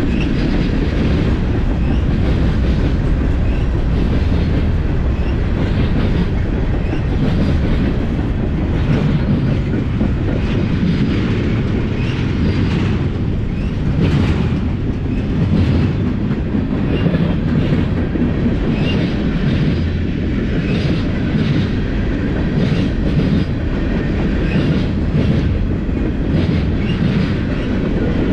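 Freight train cars rolling past, with a steady heavy rumble and repeated clacks of wheels over the rail joints.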